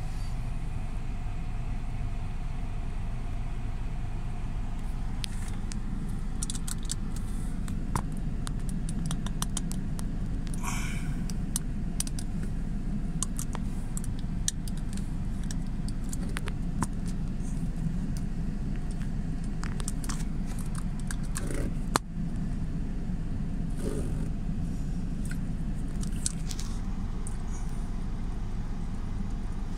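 Steady low hum of a running car engine, with scattered clicks, rustles and a jingle like keys being handled, and one sharp click about 22 seconds in.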